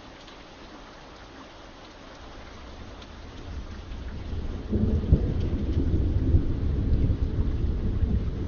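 Steady rain with scattered drips, then a low rumble of thunder builds from about three and a half seconds in and rolls on loud through the rest.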